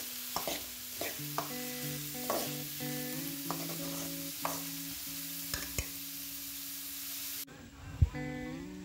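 Diced radish and onion sizzling in an aluminium kadai while a steel ladle stirs, scraping and clicking against the pan, over soft background music. The sizzle stops suddenly about seven and a half seconds in, and a single loud thump follows.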